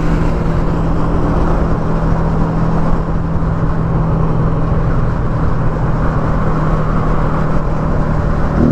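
Yamaha Y15ZR's 150 cc single-cylinder four-stroke engine running steadily at cruising speed on a highway, heard under heavy wind rush on the microphone.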